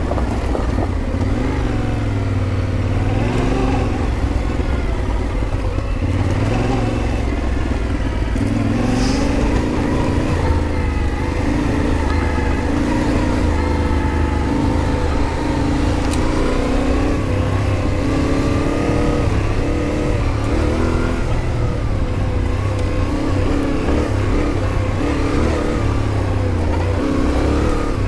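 Yamaha Ténéré 700's parallel-twin engine running under a constantly changing throttle, its pitch rising and falling as the motorcycle is ridden.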